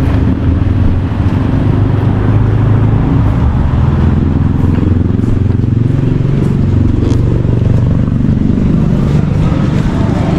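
Motor vehicle engine running with road noise, its low hum drifting up and down in pitch as the speed changes.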